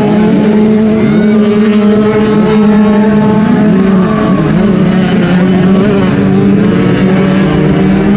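Several small peewee dirt bike engines racing together, their pitches rising and falling over one another as the riders rev and shift.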